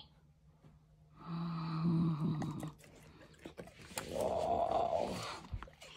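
Black Labrador making a long, low, steady-pitched groaning whine, then a second, breathier grumble, impatient while waiting for his treat.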